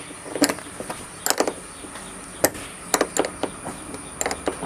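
Metal clicks and taps of a wrench tightening a 10 mm bolt on a wiper motor assembly: about eight separate sharp clicks spread unevenly, some in quick pairs.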